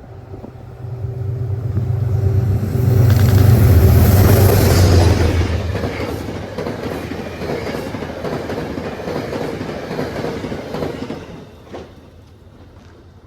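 A train passing close by. Its low rumble and wheel noise build over the first few seconds, are loudest about three to five seconds in, then fade with a steady rail clatter that drops away near the end.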